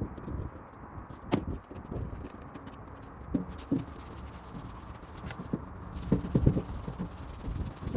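Irregular knocks and clatter of tools and parts being handled during shop work, with one sharper knock about a second in and a quick cluster of several thuds about six seconds in.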